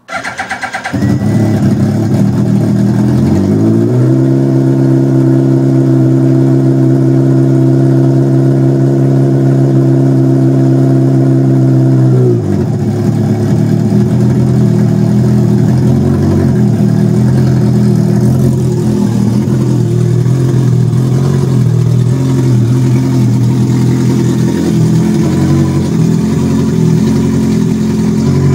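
Pro-motive R1 Mini engine starting up for the first time and catching at once. At about four seconds it revs up and holds a steady high speed for some eight seconds. It then drops back and runs unevenly at a lower speed.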